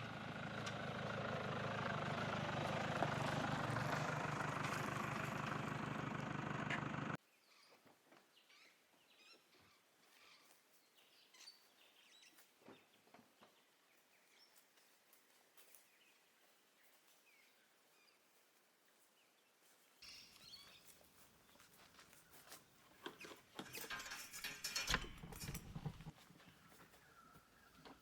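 A vehicle driving, with steady engine and road noise, cuts off suddenly about seven seconds in. Quiet bush ambience with faint bird calls and scattered small clicks follows. From about twenty seconds in come irregular knocks and rattles of things being handled.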